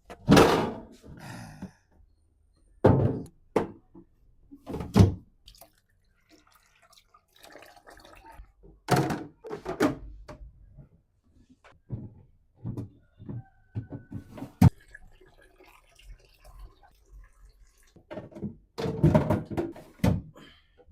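Irregular thunks and knocks of objects being handled and set down, with a sharp click about two-thirds of the way through and a quick run of knocks near the end.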